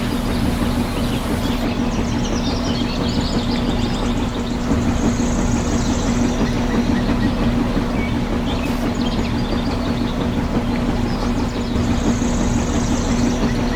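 Small electric motor of a DIY model tractor water pump running steadily with a constant hum and a rattly hiss.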